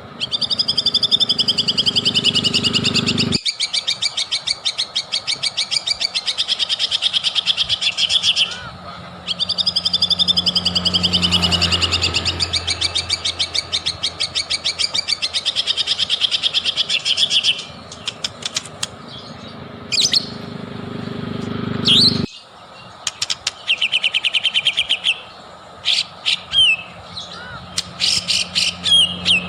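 White-rumped shama (murai batu) singing: two long, fast trills of rapidly repeated notes of about eight seconds each, then shorter phrases of sharp, sweeping whistles and calls.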